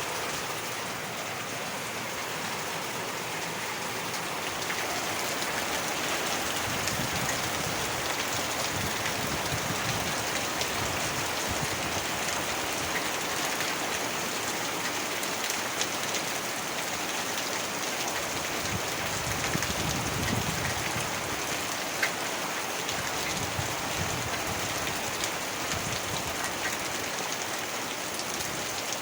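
Heavy rain falling steadily, a dense patter of drops on surfaces, with occasional louder single drop ticks.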